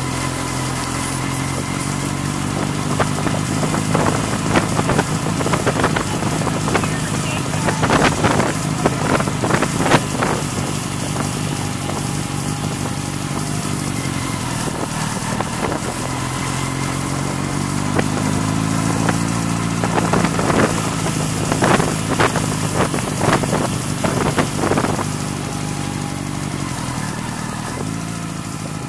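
Motorcycle engine running under way, its pitch rising about halfway through as it speeds up. Two spells of short cracks and rattles, several seconds in and again in the second half, are the loudest moments.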